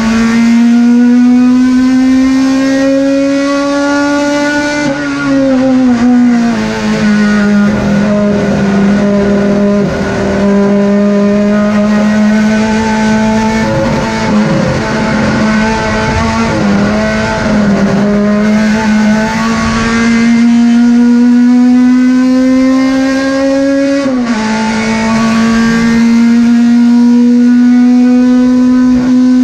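Turismo Pista Clase 2 race car engine running hard. A steady pitched drone climbs slowly and then drops sharply at a gear change about five seconds in. It wavers at lower revs through the middle, climbs again, and drops at another shift near the end.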